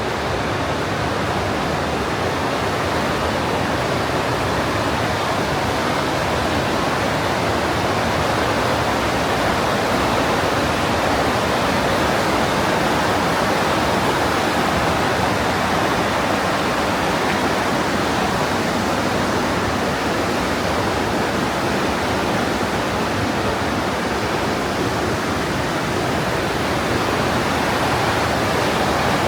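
Mountain stream of glacial meltwater rushing steadily through a narrow limestone gorge, a loud, even roar of water with no let-up.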